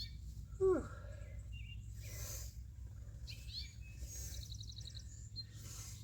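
Outdoor garden ambience with birds chirping in short high repeated trills, and a brief falling call about half a second in, over a steady low hum.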